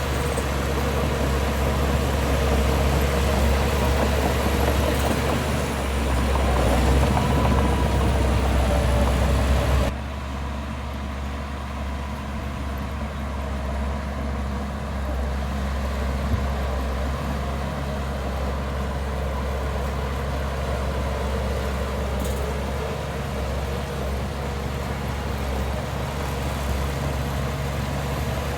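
Heavy diesel engines of earthmoving machinery running steadily. The sound is louder for the first ten seconds, then drops suddenly to a lower, steady level.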